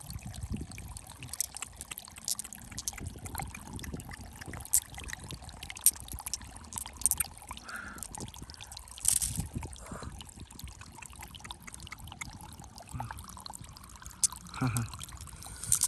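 Water sloshing and trickling, with frequent small clicks and scrapes of stones or shells being handled and rinsed in it.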